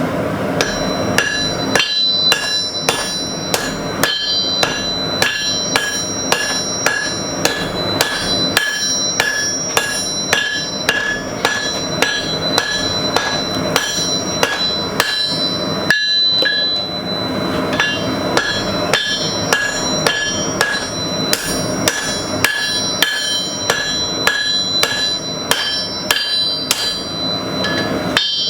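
Hand hammer striking hot carbon steel bar stock on an anvil, an even rhythm of about two ringing blows a second while the knife's point is forged, with a brief pause about halfway. A steady rush of the running forge lies beneath.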